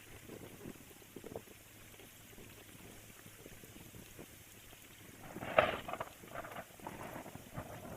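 Rain falling and pattering, with scattered small drips. About five and a half seconds in comes a cluster of louder, irregular taps and knocks, the first the loudest, tapering off near the end.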